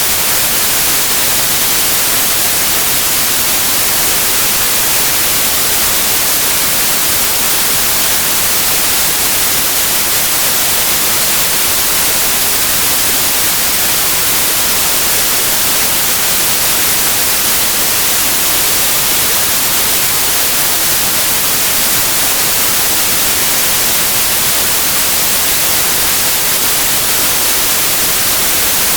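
Steady, even white noise: a loud, unchanging hiss across all pitches, with no tones, rhythm or melody.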